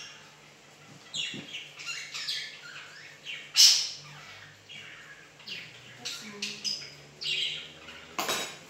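A pet bird chirping in a string of short, high calls, the loudest about three and a half seconds in.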